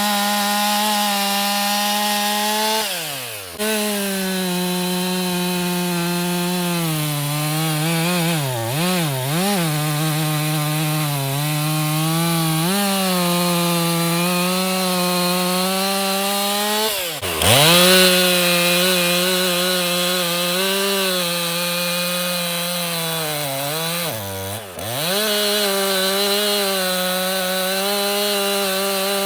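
Stihl MS362 M-Tronic two-stroke chainsaw running at high speed while cutting wood. Its engine pitch dips sharply and picks back up about four times: near 3 s, twice around 9 s, near 17 s and near 24 s.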